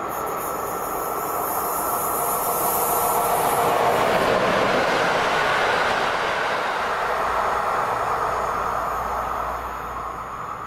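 A train passing on the track: its running noise swells to its loudest about four seconds in, holds, then fades away near the end.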